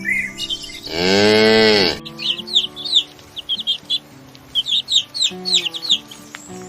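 A cow mooing once, a loud call of about a second whose pitch rises and falls, followed by a run of short, high, downward-sweeping bird chirps.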